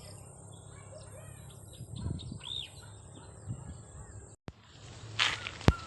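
Birds chirping in short calls, one rising and falling, over a steady outdoor background hum. A sharp click comes near the end.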